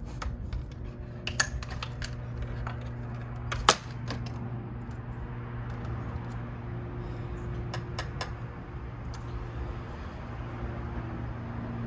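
Scattered clicks and taps of small computer parts and tools being handled during disassembly, the sharpest about four seconds in and two more close together near eight seconds, over a steady low hum.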